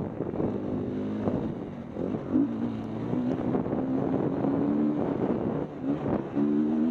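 KTM 250 EXC-F's single-cylinder four-stroke engine running under load, its note rising and dropping as the throttle is worked, with wind buffeting the microphone.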